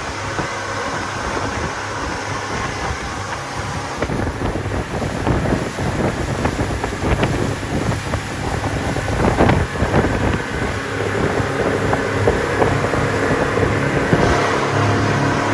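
Motorboat engine running under way, with wind buffeting the microphone.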